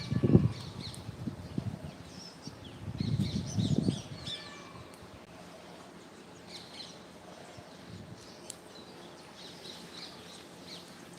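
Birds chirping, with short high chirps repeating throughout; two heavy low rumbles in the first four seconds, then only the chirping over a quiet background.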